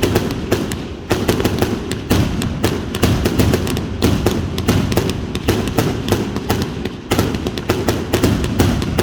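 Georgie's Revenge 200-shot firework cake firing a rapid volley, several sharp cracks a second over a steady low rumble.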